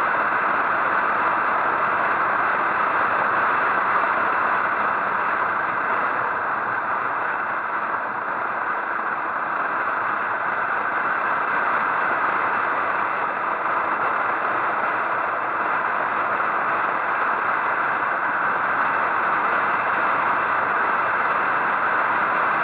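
Motorcycle ride: steady engine and wind noise, even throughout, with no shifts or revving.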